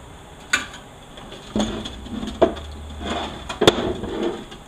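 Steel washers and bearing parts from a 4L80E automatic transmission clinking and clattering as they are handled and set down. There are three sharp clinks, the loudest late on, with rougher scraping and rattling between them.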